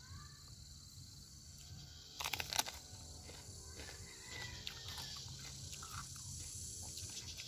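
Biting into a raw red mini sweet pepper: a short cluster of crisp crunches a little over two seconds in, then quiet chewing, over a steady high buzz of insects.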